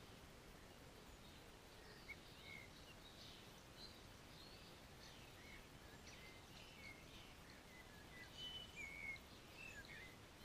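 Faint chirps and short whistles of songbirds, scattered throughout and coming thicker near the end, over a steady low background hiss.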